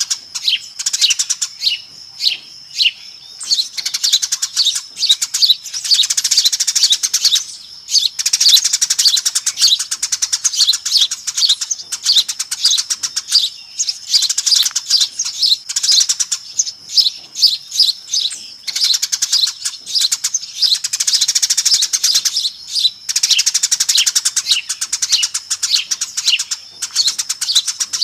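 A flock of Eurasian tree sparrows chirping busily: a dense chatter of quick, high chirps that breaks off briefly every few seconds. It is a noisy sparrow lure call (suara pikat), used to draw sparrows in.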